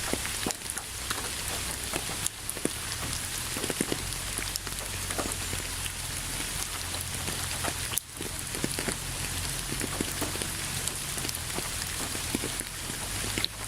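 Steady rain falling on a surface: an even hiss with many separate drop ticks. It dips briefly about eight seconds in.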